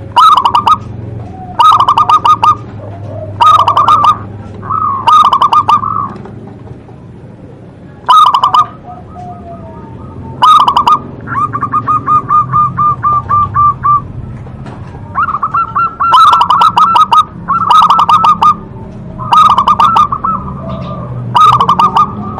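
Zebra dove (local perkutut) cooing over and over: short bursts of rapid, trilled coos every second or two, with a longer run of quick, even notes near the middle.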